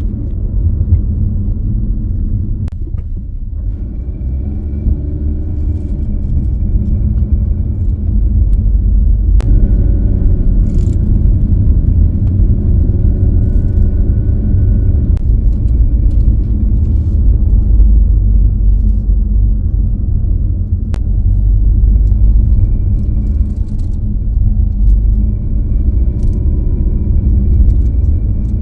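Car driving along a road: a steady low rumble of engine and road noise, with the engine's pitch rising and falling a little as the speed changes.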